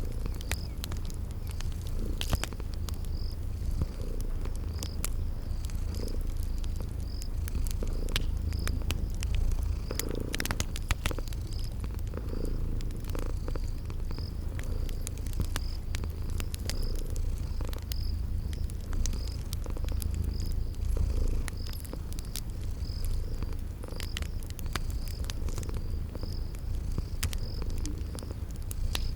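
Cat purring steadily in slow swells, mixed with the sharp pops and crackle of a wood fire and a cricket chirping about once a second.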